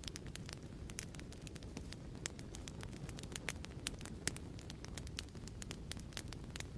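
Wood fire crackling in a fireplace: irregular sharp pops and crackles, several a second, over a low steady rumble.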